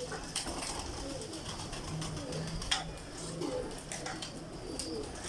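Domestic loft pigeons cooing repeatedly, several low rolling calls overlapping, with a few sharp clicks in between.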